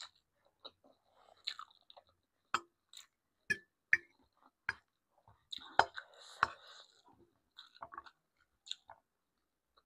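A person chewing and eating, with a string of short, sharp mouth clicks and crunches, roughly one every half second to a second, and a longer, noisier stretch of chewing around six seconds in.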